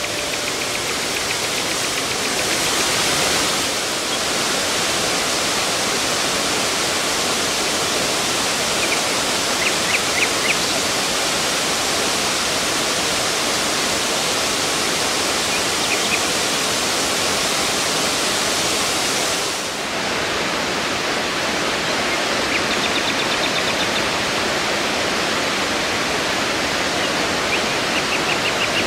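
The Dzhuryn waterfall's water rushing down, a steady, even roar of falling water.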